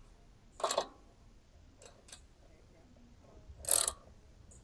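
Hand tools worked on a small engine's valve adjusters: two short rasping metal clicks about three seconds apart, with a couple of faint ticks between.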